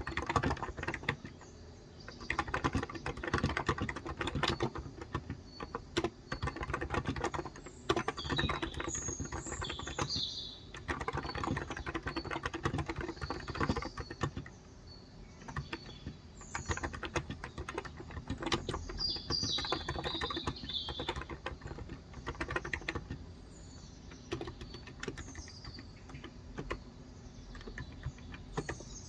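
Typing on a Cox Endeavor electro-capacitive tenkeyless keyboard with 35 g switches: bursts of rapid, soft keystrokes broken by short pauses. Birds chirp in the background, in a cluster about eight seconds in and again about twenty seconds in, with scattered calls near the end.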